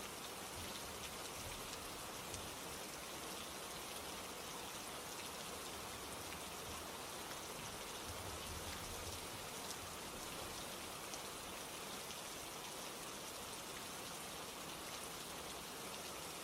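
Steady rain falling, a soft even patter with scattered drop ticks and no breaks.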